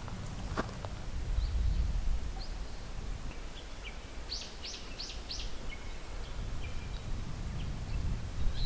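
Small birds calling: scattered short high chirps and, about halfway through, a quick run of four high down-slurred notes. Under them runs a low rumble, and there is a single sharp click just after the start.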